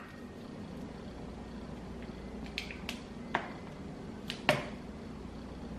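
A few light, sharp clicks and taps of kitchen containers and utensils being handled while light corn syrup is measured out, over quiet room tone.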